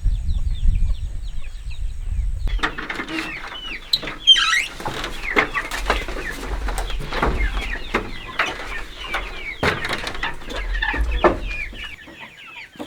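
Chickens clucking, many short calls overlapping, with a low rumble underneath for most of it.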